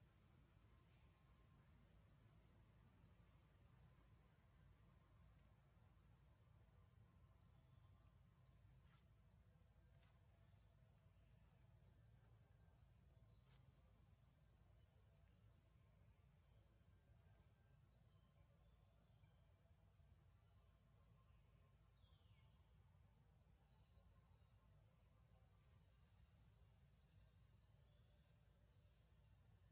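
Faint, steady high-pitched insect chorus with a chirp that repeats, quickening to about two a second in the later half.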